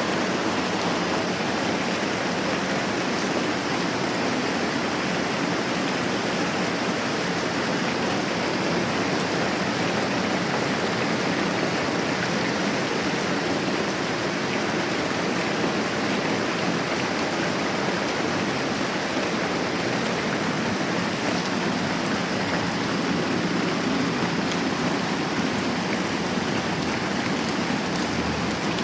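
Moderate rain falling steadily: a continuous, even hiss with no let-up.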